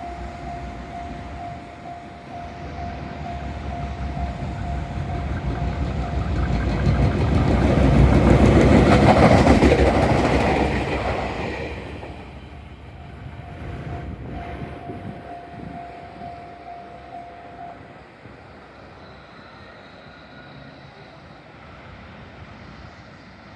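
Level-crossing warning bell (Tohoku-type electronic bell) ringing while a Fukushima Kotsu 1000 series electric train passes over the crossing, loudest about 9 seconds in and fading away by about 12 seconds. The bell rings on after the train has gone and stops about 18 seconds in.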